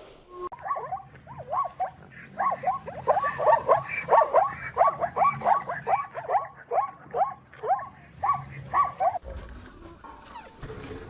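An animal calling over and over in quick short cries, about two to three a second, that stop about three-quarters of the way through.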